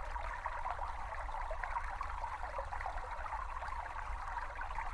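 A small stream babbling steadily: a recording of running water trickling and burbling with an even, unbroken flow.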